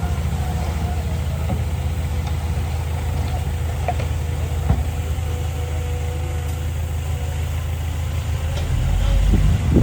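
Diesel engine of heavy earthmoving equipment running steadily, with a faint steady whine over the low drone. There is a single sharp knock about halfway, and the engine grows louder near the end.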